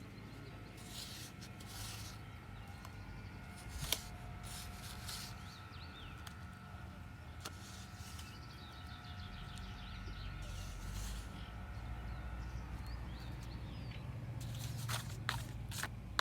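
Sand being scraped and packed into a plastic sand mould, then a quick run of sharp taps near the end as the mould is knocked to release the sand shape. A faint steady whine sits underneath and stops about three-quarters of the way through.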